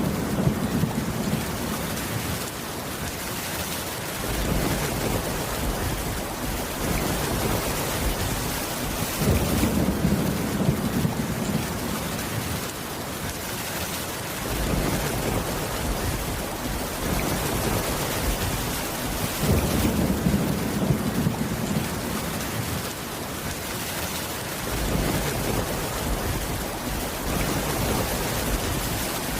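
Steady heavy rain falling on a roof, with a low rumble of thunder swelling three times, about every ten seconds.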